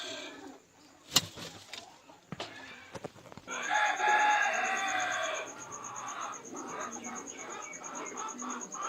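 A rooster crows once, a single drawn-out call of about two seconds starting about three and a half seconds in. Two sharp clicks come before it, and softer broken bird sounds follow.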